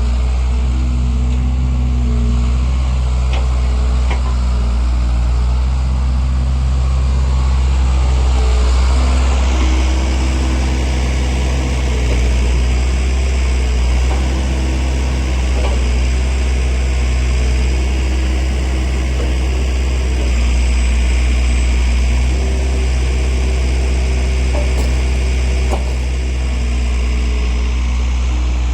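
Skid steer engine running steadily while it drives a homemade hydraulic log splitter, its sound shifting about nine seconds in, with a few faint sharp clicks.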